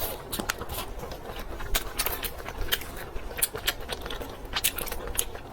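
A person chewing and biting fried skewered food close to the microphone: a quick, irregular run of crisp crunches and small clicks.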